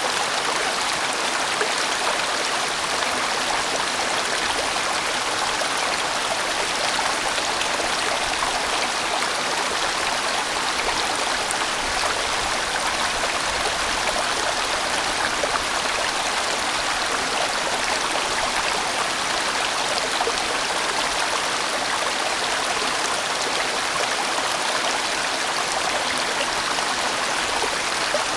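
A large mountain stream running steadily over rocks, an even, continuous rush of flowing water.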